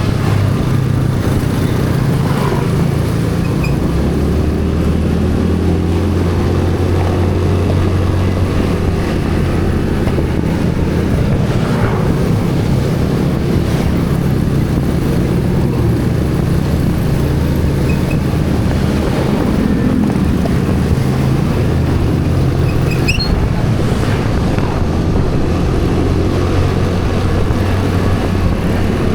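A motor vehicle's engine running steadily while under way, its low hum shifting in pitch now and then, with wind noise on the microphone.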